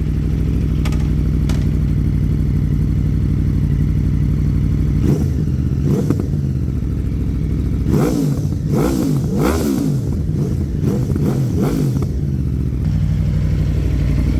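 Aprilia RSV4's V4 engine through an Akrapovic full titanium exhaust, idling steadily, blipped twice, then revved in a run of five or six quick rises and falls before settling back to idle. The revs go only to about 7,000–8,000 rpm because the brand-new engine is still being run in.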